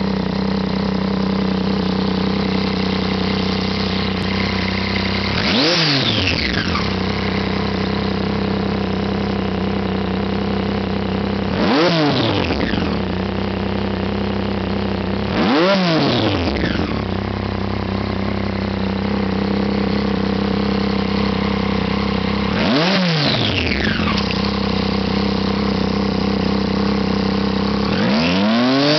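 Triumph Street Triple R's three-cylinder engine breathing through an aftermarket Remus exhaust, idling steadily and blipped to higher revs four times, each rev rising quickly and falling back to idle; a fifth, longer rev starts near the end.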